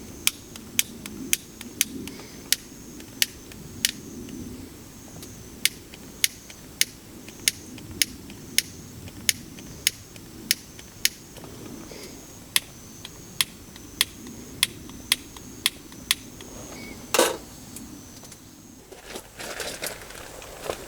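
Wood campfire crackling, with sharp pops coming irregularly about one or two a second. There is a louder knock about 17 seconds in.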